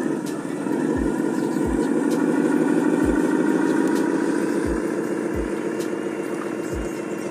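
Truck engine running steadily, swelling a little a few seconds in and then easing off, with deep low thumps recurring every second or so.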